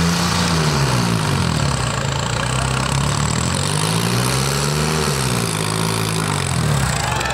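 Swaraj 855 tractor's diesel engine revving up and down during a stunt. Its pitch drops about a second in, climbs to a peak around five seconds, then falls away again.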